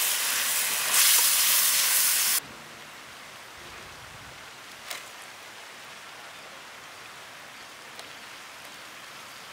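Prawns and squid sizzling hard in a large wide pan as they are stirred with a perforated ladle, the water they released boiling off. About two and a half seconds in, the sound drops abruptly to a quieter, steady sizzle with a couple of faint clicks.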